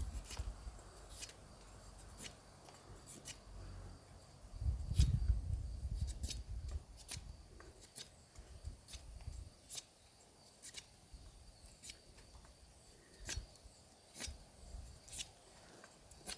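Machete blade slicing shavings off a piece of fresh hornbeam in short strokes, each a crisp, sharp snick. A dull low rumble of handling comes about five seconds in.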